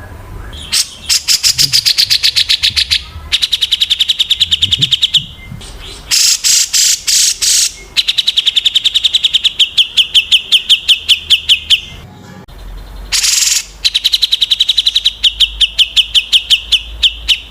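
Small songbirds singing: fast trills of sharp repeated chirps, about ten a second, in runs of two to four seconds. A few harsh, buzzy notes break in around the middle and again later.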